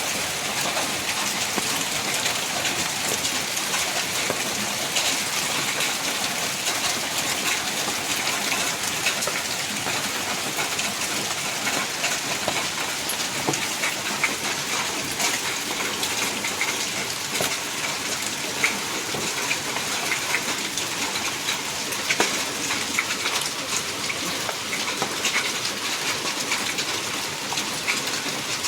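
Heavy hail and rain falling, a steady dense hiss with many small sharp ticks of hailstones striking surfaces.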